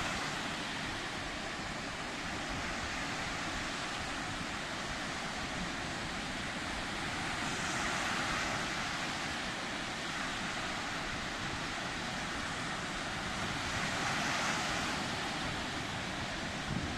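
Sea surf: a steady wash of waves, swelling twice as waves break, about eight and fourteen seconds in.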